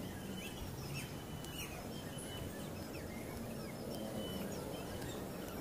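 Birds chirping in short, scattered calls over a steady outdoor background hum.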